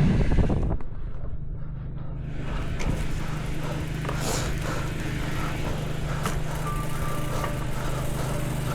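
Wind buffeting the microphone, then a steady low hum of a running motor, with a brief high tone about two-thirds of the way in.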